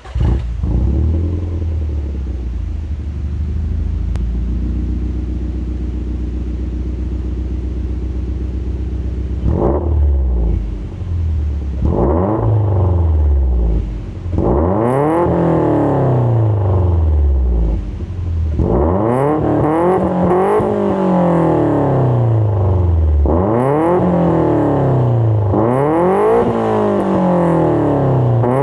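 Subaru Impreza GC8 flat-four boxer engine through an aftermarket exhaust (SYMS exhaust manifold, Marche catalyst, NENC center pipe and NENC rear muffler), idling steadily. A sharp blip comes about ten seconds in, then it is revved up and down repeatedly, in several runs of climbing and falling revs.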